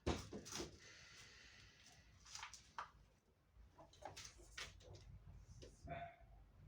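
Faint scattered clicks and knocks from parts or tools being handled, with a sharp click at the start and a light hiss over the first couple of seconds.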